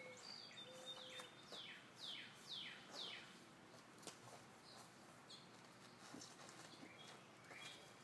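A wild bird singing faintly: a quick run of about five downward-slurred whistled notes, with a few scattered notes after it.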